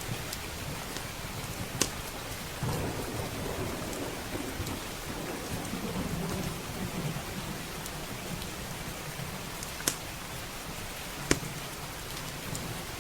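Steady heavy rain with low rolling thunder rumbling for several seconds from about three seconds in, and three sharp pops from a crackling wood fire, the loudest sounds, about two seconds in and twice near the end.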